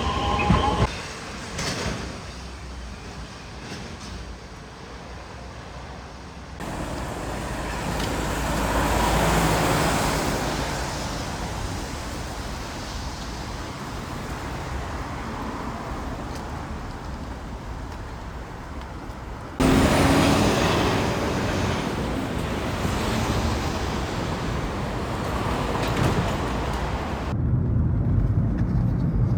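Steady rumble of passing road vehicles and traffic, in several segments that change abruptly. A short squealing tone in the first second is likely the tail of the train that the traveller has just ridden.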